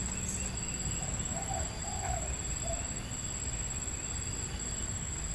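Spotted dove cooing: one phrase of three low coos, starting about a second in, over a steady high insect drone.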